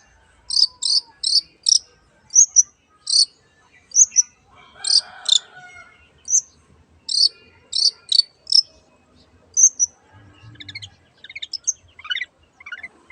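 Long-tailed shrike (cendet) singing: a quick string of sharp, high chirps, singly and in pairs, about two a second. Near the end it turns into faster trilled notes.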